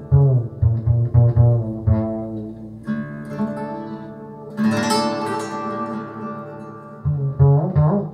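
Recorded music played through Børresen X6 tower speakers in a listening room: deep plucked bass notes pulse at the start and again near the end, with held string-like tones between them and a fuller, brighter passage coming in just past halfway.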